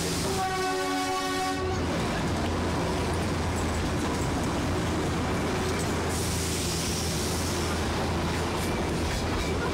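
A single horn blast lasting just over a second, about half a second in, over the steady rumble and low hum of a Darjeeling Himalayan Railway train running, heard from inside the carriage.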